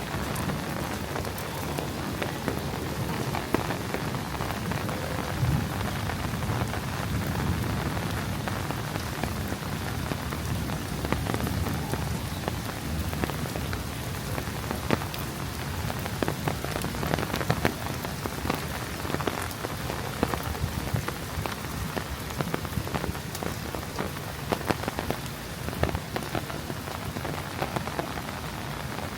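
Steady thunderstorm downpour, with frequent sharp ticks of raindrops striking close by.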